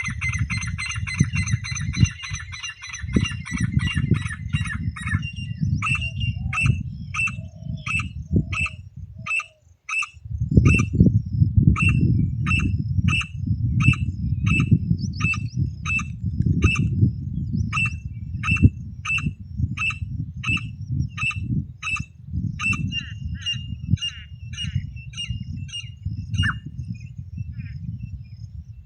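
Francolin (teetar) calls used to lure the birds: a fast rattling trill, then a long series of sharp repeated notes, a little over one a second, with a brief pause about ten seconds in. A steady low rumble runs underneath.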